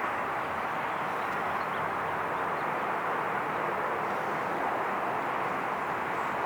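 Steady, even roar of jet airliner engines, with no rise or fall in level.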